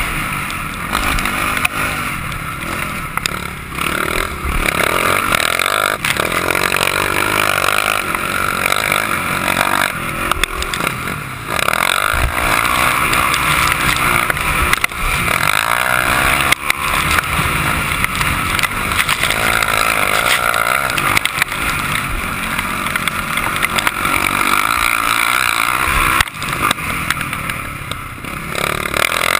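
Motocross motorcycle engine running hard around a dirt track, revving up and easing off again and again.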